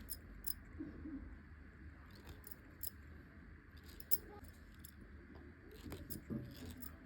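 Cotton thread twisting and snapping as eyebrow hairs are threaded out: a string of faint, sharp, irregular ticks.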